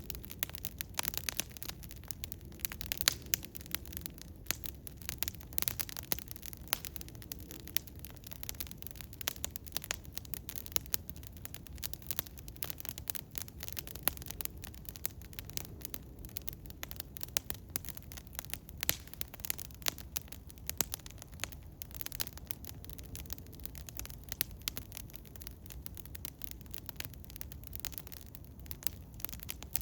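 Eastern hemlock wood fire crackling: irregular sharp pops and snaps, some much louder than others, over a low steady background noise.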